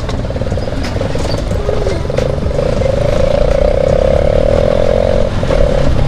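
Bajaj Pulsar NS200's single-cylinder engine running steadily under way through a loud aftermarket exhaust.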